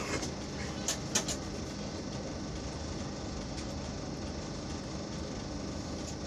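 Steady rumble of a running passenger train, heard from inside the coach, with a few sharp clicks in about the first second and a half.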